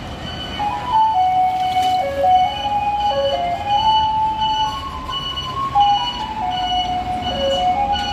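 A garbage truck's Pokka PA-50W music box playing its electronic melody through a loudspeaker, starting under a second in: the tune that announces the truck at a collection stop. Under it runs the low rumble of the truck's idling diesel engine.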